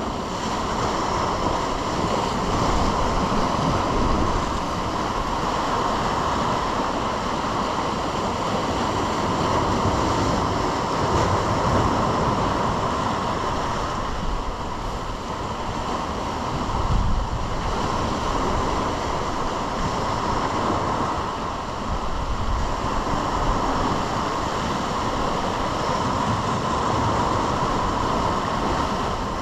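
Ocean surf washing steadily, with wind buffeting the microphone in low rumbles, strongest about halfway through.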